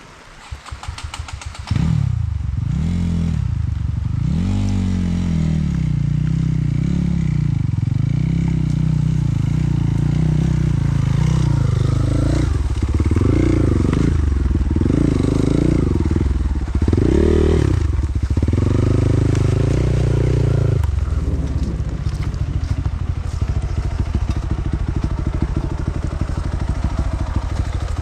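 Trail motorcycle engine catching about two seconds in, then revved up and down several times before settling to a steadier, lower running sound near the end.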